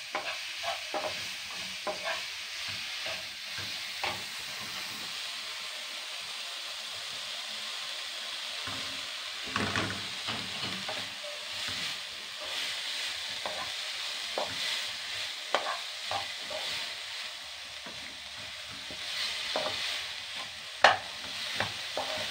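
Shredded banana blossom frying in oil in a pan, with a steady sizzle. A spatula stirs it, scraping and clicking against the pan, and gives a sharp knock near the end.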